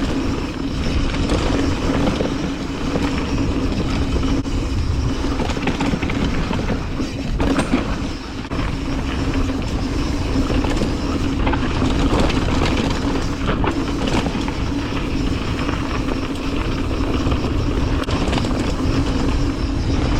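Mountain bike riding down a dirt trail: steady tyre noise with constant rattling and knocking from the bike.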